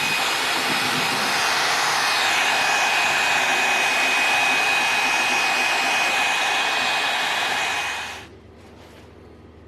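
Small electric motor with a fan running steadily, a rush of air with a thin high whine, then switched off about eight seconds in.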